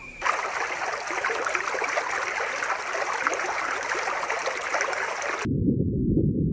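Steady rushing of running water. About five seconds in it cuts off abruptly and a muffled low rumble takes over.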